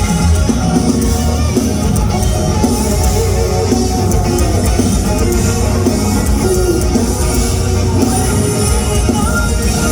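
Live rock band playing loudly mid-song with a drum kit and guitars, the sound dense and steady throughout.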